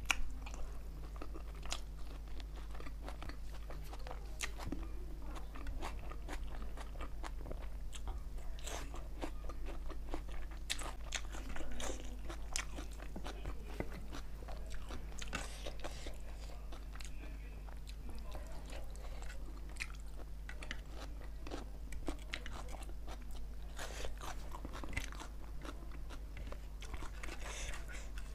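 Close-miked chewing and mouth sounds of a person eating spicy chicken and rice by hand, with many short, sharp clicks from bites and lip smacks. A steady low electrical hum runs underneath.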